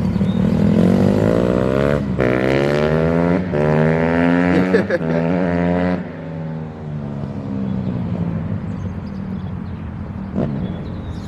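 Honda CRF150R dirt bike's four-stroke single-cylinder engine accelerating hard. Its pitch climbs and drops back with each of three upshifts, then falls to a quieter, lower steady note about six seconds in.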